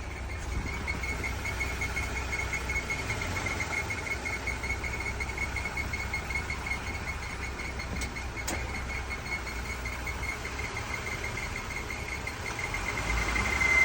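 Jeep engine idling with a high-pitched, rapid and even chirping from the front accessory drive, a noise that remains after the idler pulley was replaced. Near the end the chirp becomes a louder, steadier squeal; two sharp clicks come about halfway through.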